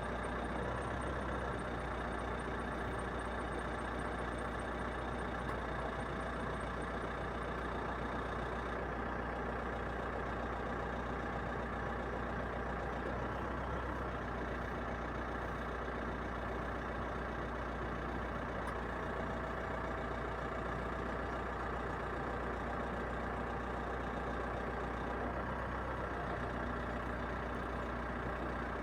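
A vehicle engine running steadily, with an even low hum and no breaks. A thin, high pulsing buzz sits over it and stops about nine seconds in.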